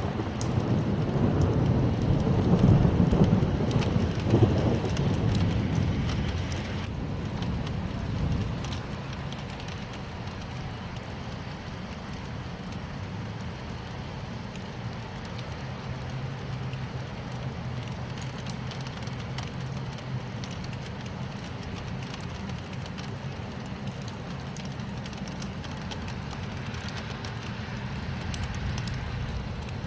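A thunderstorm: a low rumble of thunder dies away over the first several seconds, over rain falling steadily. After that the rain goes on evenly.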